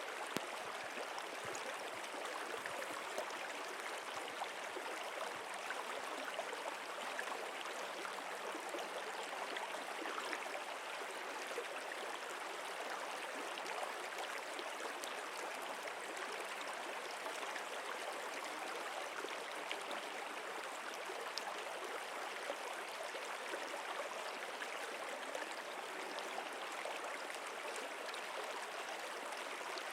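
Stream water running steadily, a constant rushing with fine splashing and gurgling.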